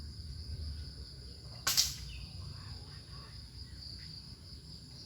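A single air rifle shot, a short sharp hissing crack about two seconds in, over a steady high-pitched drone of insects.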